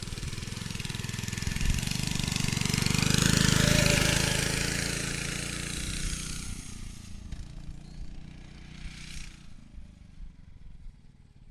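Motovox pit bike's small engine running as the bike rides past, growing louder to a peak about four seconds in and then fading away into the distance.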